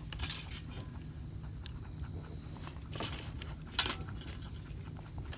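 Chopstick stirring melted sugar and baking soda in a metal dalgona ladle: a few short scrapes, near the start and twice about three seconds in, over a steady low rumble.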